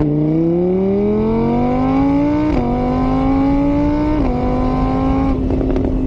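Car engine accelerating through the gears: its pitch climbs steadily and drops twice at the gear changes, then holds level at a steady cruise.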